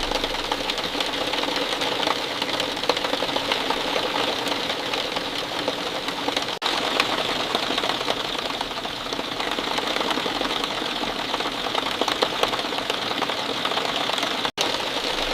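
Rain falling steadily, a dense patter of countless small drops, with a split-second break about six and a half seconds in.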